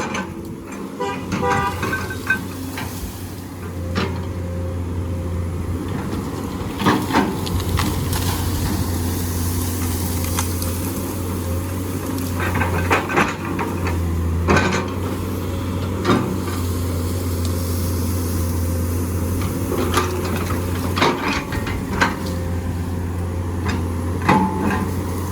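Heavy diesel engine of an excavator running steadily under load, with sharp clanks and knocks every few seconds, a few of them close together.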